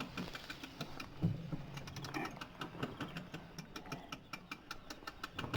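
Bicycle rear-hub freewheel ticking rapidly and evenly while the bike coasts, with a single low bump about a second in.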